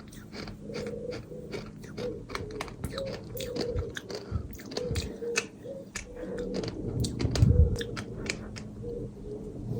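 Close-miked chewing of dry and damp bird sand chunks: dense, irregular gritty crunches and crackles, with a louder low chomp about seven seconds in.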